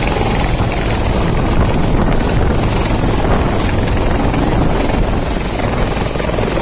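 Helicopter running steadily at close range: a dense, constant rotor and engine noise with a thin, high steady whine over it.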